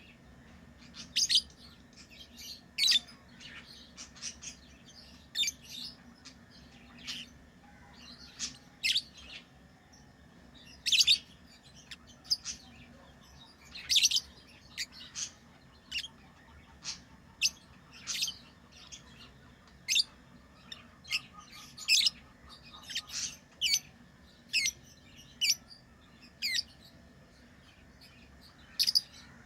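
Pet lovebirds chirping: short, sharp, high-pitched calls coming irregularly, about one a second, some in quick pairs.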